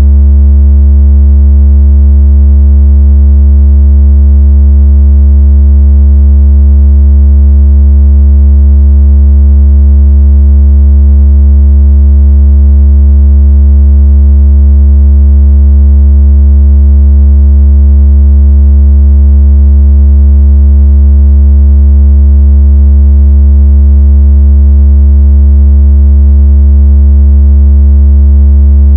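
Synthesized deep electronic tone held perfectly steady at high volume, a continuous buzzing hum with faint overtones above it. It is a speaker water-ejection tone, the kind played to vibrate water out of a phone speaker.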